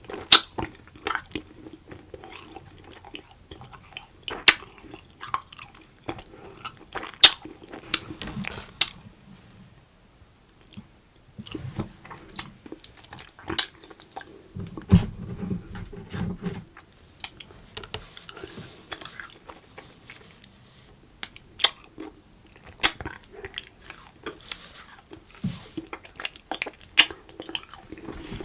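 Close-miked chewing and biting of food, with many irregular sharp, wet mouth clicks and smacks and an occasional crunch.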